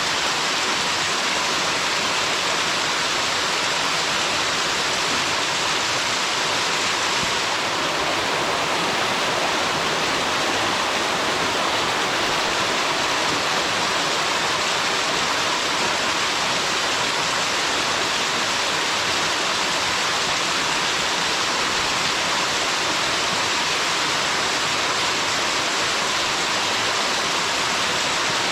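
Waterfall rushing steadily, water shooting out with force and crashing down: a continuous even hiss of falling water.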